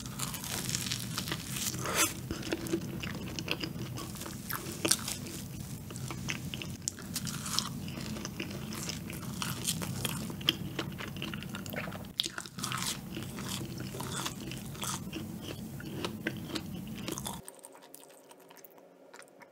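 Close-miked mouth sounds of biting into and chewing a sugar-coated, cream-filled donut: soft, sticky clicks and smacks of the dough and cream. The chewing stops about two seconds before the end.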